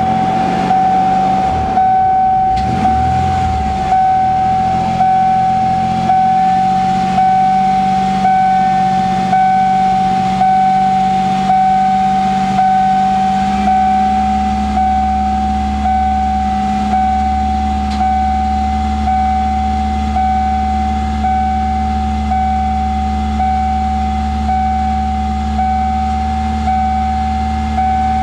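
A dashboard warning chime dings steadily, about once every second and a third, over a 1992 Ford Explorer's 4.0 L V6 running at a fast idle near 2,000 rpm. The engine is running on gasoline for the first time in years after a fuel pump replacement. About halfway through, the engine note deepens and grows heavier.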